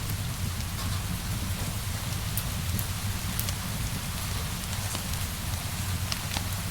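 Steady rainfall layered with a crackling wood fire: an even hiss of rain over a low rumble, with scattered sharp pops and crackles.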